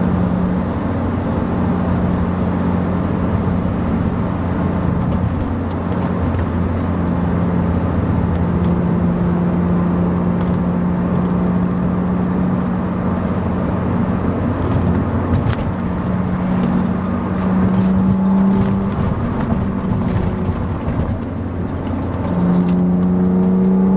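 1997 BMW E36 M3's 3.2-litre straight-six through a UUC RSC36 cat-back exhaust, heard from inside the cabin while cruising, with a steady engine note over road noise. The note drops away a few times as the throttle eases and comes back stronger near the end.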